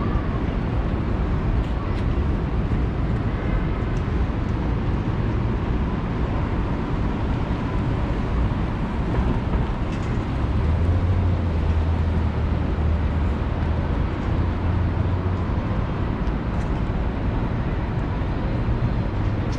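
City street traffic heard while cycling: a steady low rumble of vehicles and wind on the microphone, with a deeper hum swelling for several seconds in the middle.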